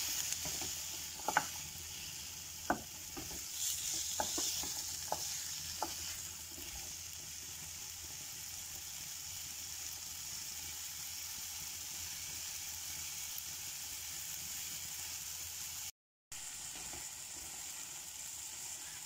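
Diced potatoes and onions sizzling as they fry in a metal karahi, stirred with a wooden spatula that knocks against the pan five or so times in the first six seconds, then a steady frying hiss. The sound cuts out for a moment about three seconds before the end.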